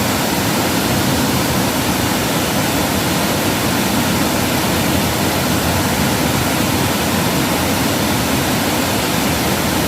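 Loud, steady rush of flowing water, an even roar with no breaks.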